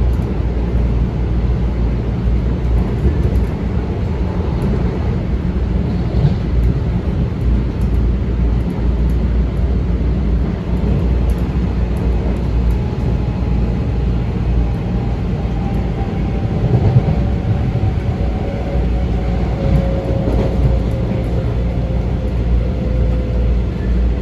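Metro-North M7 electric train riding along: a steady rumble of wheels and running gear heard from inside the car. From about halfway a thin motor whine slowly falls in pitch as the train slows.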